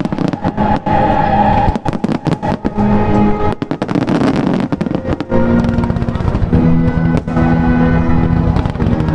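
Fireworks bursting in quick, irregular succession, with crackles between the bangs, while music plays.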